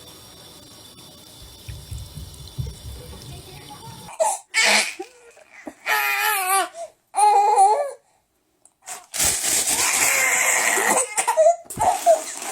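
A baby's high-pitched cries or squeals in three short bursts with wavering pitch, then a longer stretch of loud rushing noise and a few more short sounds near the end.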